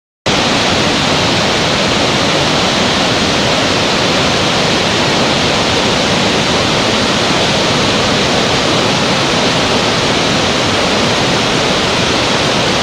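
Steady, loud rush of a large waterfall, a dense even roar of falling water that starts suddenly just after the opening.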